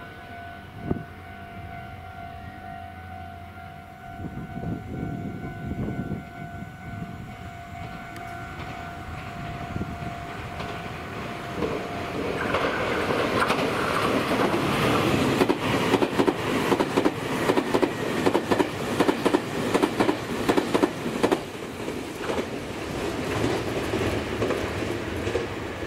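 Meitetsu 2000 series μSky electric train coupled to a 9500 series, passing through a station at speed: a level-crossing warning bell rings steadily at first, then the train's rumble builds over the second half with a rapid clatter of wheels over rail joints.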